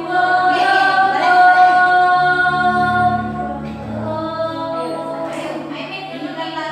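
Choir singing a cappella, mixed voices with women's voices prominent. It holds one long note for about three seconds, then moves on through shorter notes.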